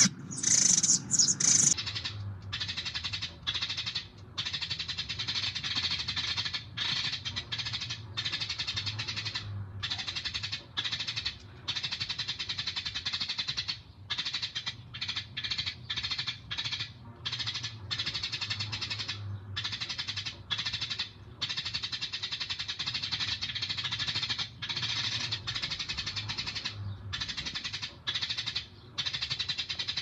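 Small birds chirping and chattering in a dense, high-pitched chorus, breaking off briefly every second or two.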